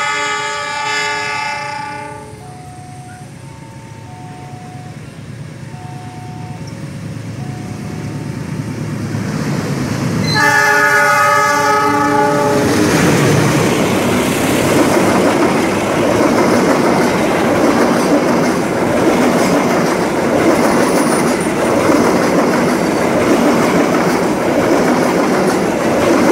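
Arjuna Ekspres passenger train sounding its horn twice, a multi-tone blast at the start and another about ten seconds in, with faint short alternating tones between them. After the second blast it passes close by with a loud steady rush and rattle of wheels on the rails.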